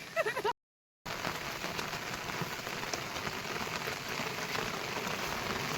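Heavy rain falling in a steady, even hiss, starting about a second in after a short break of dead silence; a brief voice is heard at the very start.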